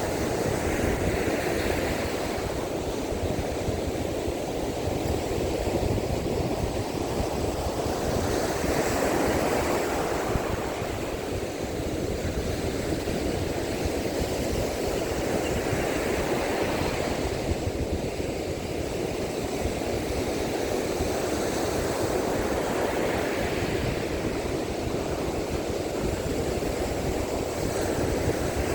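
Sea waves breaking and washing up a beach in a strong monsoon wind, a fresh wave rushing in about every seven or eight seconds, with wind buffeting the microphone as a steady low rumble.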